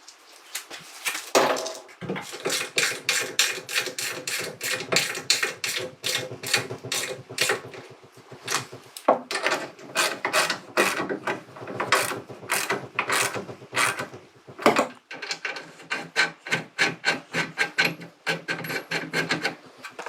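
Repeated hand rubbing or scraping strokes, about two to three a second, with short breaks twice.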